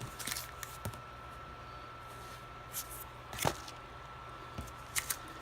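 A few scattered clicks and rustles of trading cards in plastic holders being handled, the sharpest about three and a half seconds in and a pair near the end, over a faint steady hum.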